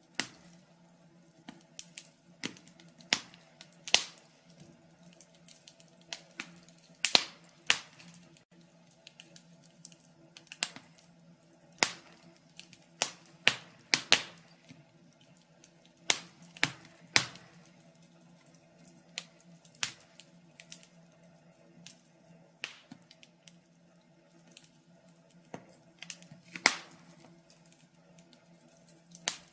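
Log fire crackling: irregular sharp pops and snaps, one or two a second and uneven in loudness, over a faint steady hum.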